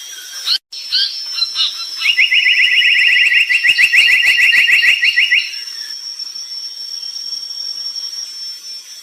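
Brown tali pocong songbird singing: a few short chirps, then a fast rattling trill of about ten rapid rising notes a second that lasts some three seconds before the song drops to faint calls. A thin, steady high tone runs behind it throughout.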